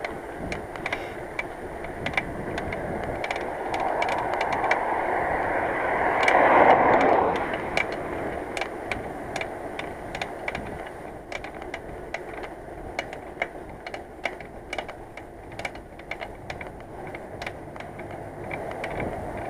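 Riding noise from a moving bicycle: a steady rush of tyres and wind with light, irregular clicks and rattles throughout. A passing vehicle swells and fades about four to seven seconds in.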